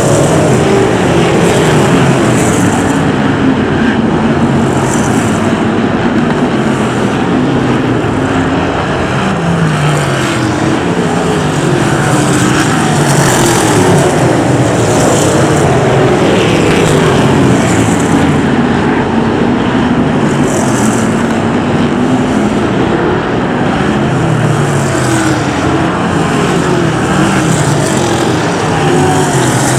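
A pack of BriSCA F1 stock cars racing, their V8 engines running loud, with the engine pitch rising and falling again and again as they go round the track.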